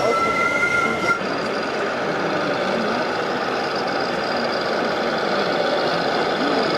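RC model trucks' electronic sound modules: a steady two-note tone for about the first second, cut off abruptly, then steady truck engine running noise.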